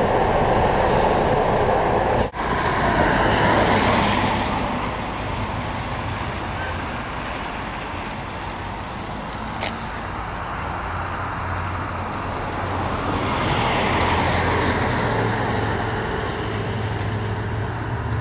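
Road traffic: motor vehicles going by, the noise swelling and fading once near the start and again late on, with a low engine hum in the second pass. There is a brief dropout a couple of seconds in.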